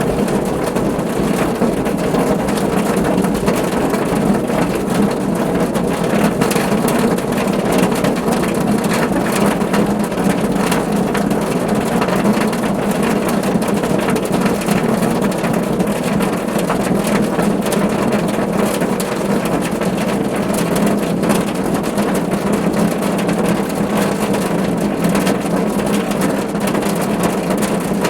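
Rain falling steadily on a car roof: a dense, even patter of drops with a steady low rumble beneath.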